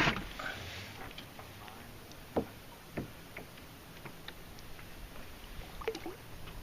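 A few faint knocks and clicks of handling on a fishing kayak against a quiet background, the clearest two about two and a half and three seconds in.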